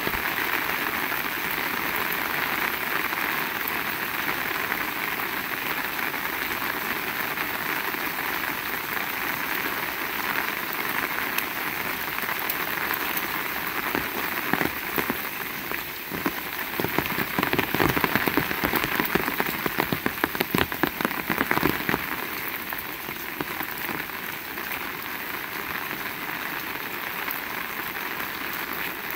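Heavy rain falling in a steady hiss of drops. About halfway through comes a spell of louder, sharper, close-by drop hits that lasts several seconds.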